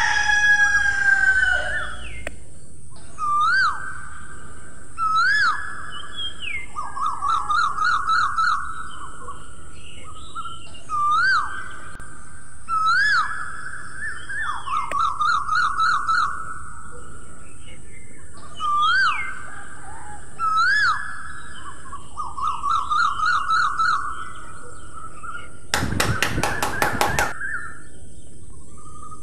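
Birdsong repeating in a regular cycle: clear whistled notes that rise and fall in a hook, alternating with buzzy trills. It opens with one call falling in pitch and is joined near the end by a brief loud rapid rattling burst, over a steady high hiss.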